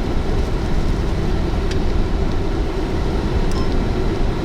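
Steady road and engine rumble inside a moving chase vehicle's cabin as it pulls out into traffic.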